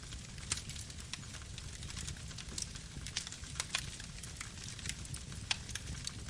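Campfire burning: wood crackling with frequent, irregular sharp pops over a low, steady rumble.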